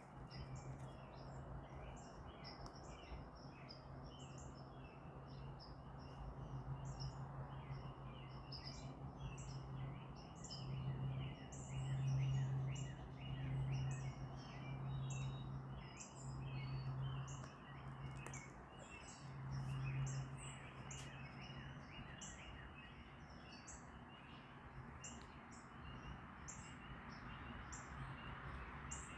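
A crowd of birds chirping, many short calls overlapping without a break. Underneath runs a low hum that swells and fades several times through the middle.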